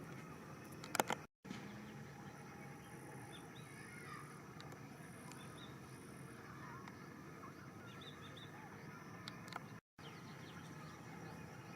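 Faint outdoor background noise with small birds chirping on and off, a sharp click about a second in, and two brief moments where the sound cuts out completely.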